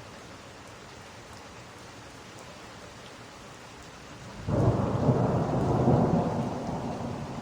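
Steady rain falling, then about four and a half seconds in a loud roll of thunder breaks in suddenly and rumbles on, fading slowly.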